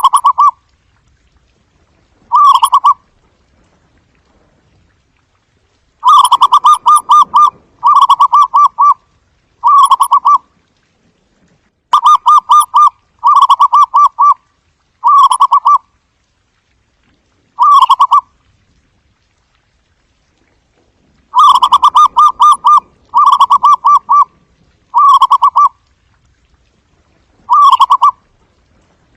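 Zebra dove calling: its soft, staccato cooing, delivered as short phrases of rapid pulsed notes. Some phrases stand alone and some come in quick runs of three or four, with gaps of a second or more between.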